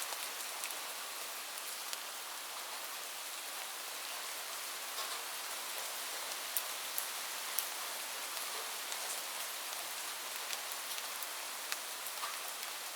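Steady rain falling, an even hiss with single drops ticking sharply now and then.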